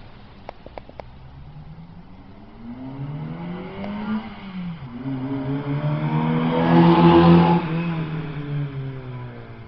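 Honda Accord's exhaust with a cat delete, B-pipe and HFP muffler, the engine climbing in pitch, dropping about four seconds in, then climbing again to its loudest a couple of seconds later before fading. A few short clicks come in the first second.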